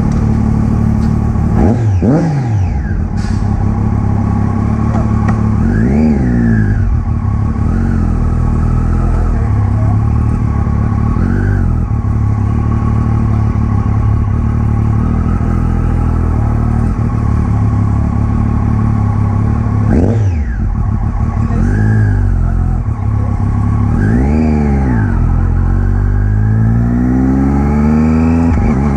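Triumph Daytona 675R's three-cylinder engine through an Arrow titanium full-system race exhaust, running hard on track. The pitch dips and rises sharply several times, then climbs steadily near the end as the bike accelerates.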